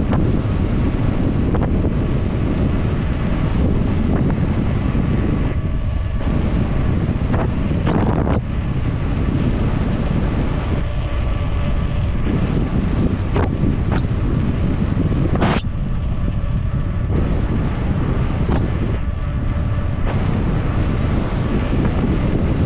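Wind buffeting an action camera's microphone on a fast downhill mountain bike descent, a loud, steady rush. Now and then a sharp knock or clatter comes through, the bike hitting rough ground.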